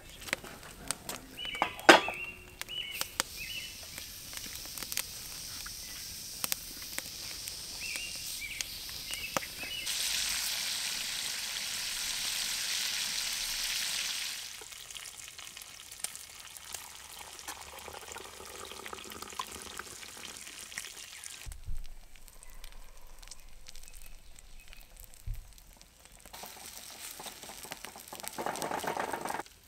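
Bacon sizzling in a cast iron skillet over a campfire, loudest for a few seconds about a third of the way in, with scattered clicks and knocks. Near the end, scrambled eggs are stirred and scraped in the pan.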